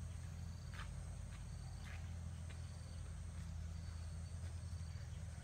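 Faint insects chirring in a broken, high trill over a steady low hum, with a few soft clicks.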